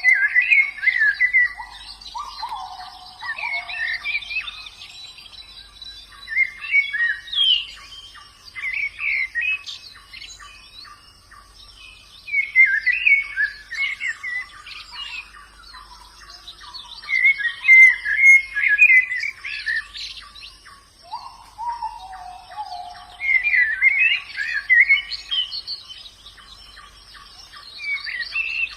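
Pleci (white-eye) birds singing: short, rapid twittering phrases that come in bursts every two to three seconds. A lower, falling call joins near the start and again about three quarters through, over a faint steady high-pitched hiss.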